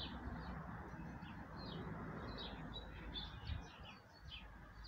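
Small birds chirping, a scatter of short high chirps, over faint steady background noise.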